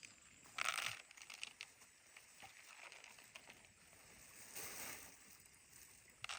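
Hands handling mixed fishing bait: a short rustle about half a second in, then scattered small clicks, and softer rustling swells near the middle and the end.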